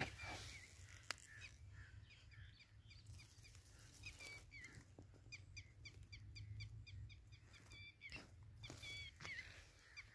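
Faint calls of birds: short, high notes repeated in quick runs, busiest in the middle, over a low rumble.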